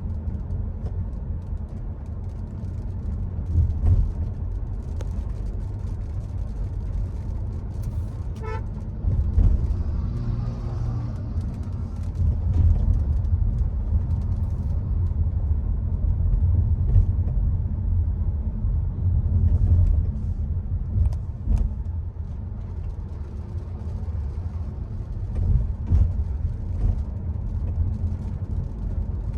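Hyundai Creta driving, with a steady low rumble of engine and road noise. A brief horn toot sounds about ten seconds in.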